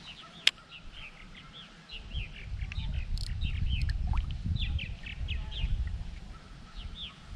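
Small birds chirping over and over in short quick notes, with a single sharp click about half a second in. A low rumble of wind buffeting the microphone swells up from about two seconds in and fades near the end.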